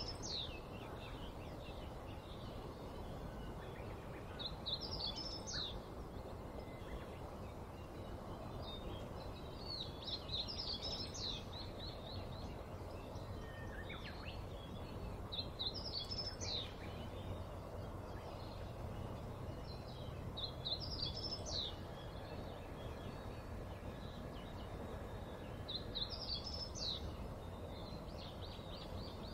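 A bird singing the same short, high phrase about every five seconds, over steady background noise.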